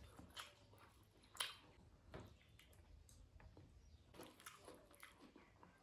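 Faint close-up chewing of a mouthful of rice and dal eaten by hand: soft wet mouth squishes and a few light clicks, scattered and uneven.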